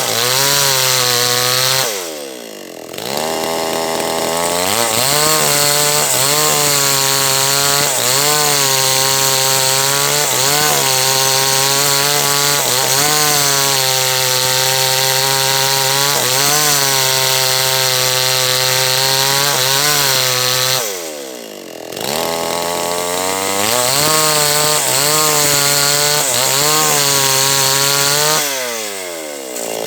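H&L Pro 5800 two-stroke chainsaw cutting teak wood, the engine pitch wavering under load. Three times, about two seconds in, around twenty-one seconds and near the end, the engine drops back toward idle and then revs up again.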